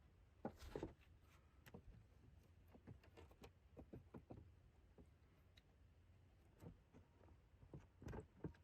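Faint, irregular light knocks and clicks, with the strongest about half a second in and near the end.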